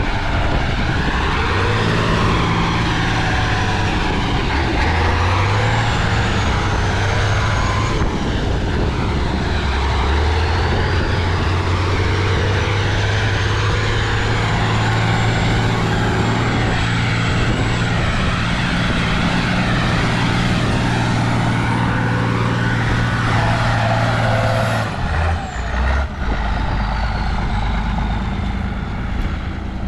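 Heavy off-road trials truck's engine running hard under load, its pitch shifting up and down, with a faint high whine rising over it. About 25 seconds in the engine note drops away.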